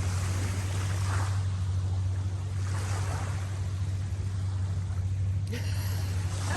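Boat motor running steadily under way, a constant low drone beneath the rush of water and wind.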